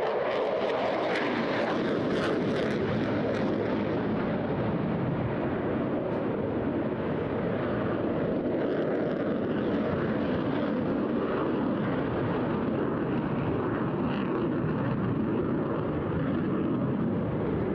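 Eurofighter Typhoon's twin EJ200 turbofans: steady, loud jet noise from the fighter flying a display manoeuvre, with a crackling edge in the first few seconds.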